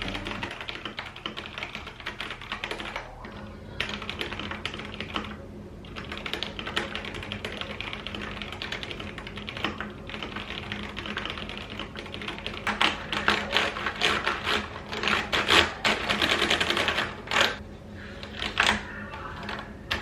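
Rapid, irregular clicking and tapping, like typing, that grows louder and heavier in the second half.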